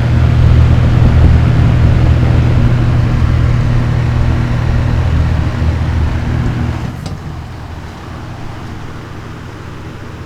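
Vintage McGraw Edison 12-inch box fan running on its high setting: a steady motor hum with the rush of air from the blade. About seven seconds in a click is heard and the sound drops as the fan is switched off and starts to spin down.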